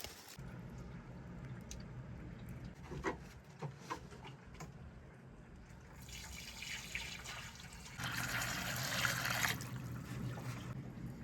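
Water running or being poured, loudest for about a second and a half in the second half, with a few light knocks earlier over a low steady hum.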